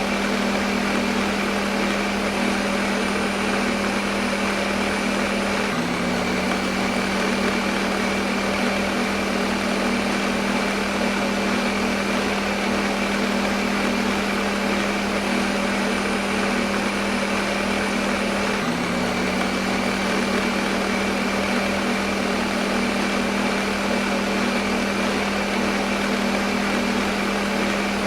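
Electric kitchen blender motor running continuously with a steady whirring drone. Its pitch dips slightly and recovers twice.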